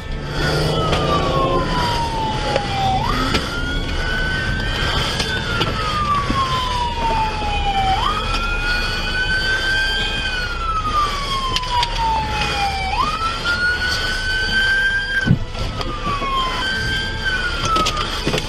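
Emergency vehicle siren wailing: the tone climbs quickly, holds, then slides slowly down, in cycles of about five seconds, over a steady low road and engine rumble.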